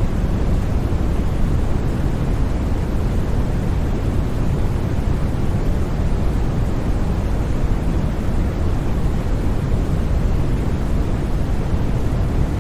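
Steady white noise: an even, unbroken rush with no changes or events, weighted toward the low end so it sounds deep rather than hissy.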